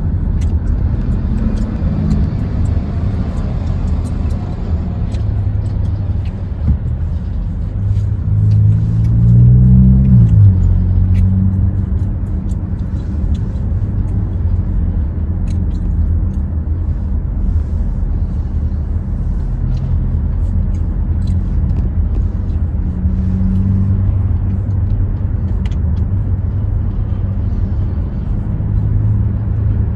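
Hyundai Tucson's engine and road noise heard from inside the car while driving: a steady low rumble. About eight seconds in, the engine note rises and grows louder as it accelerates, then drops off sharply a couple of seconds later.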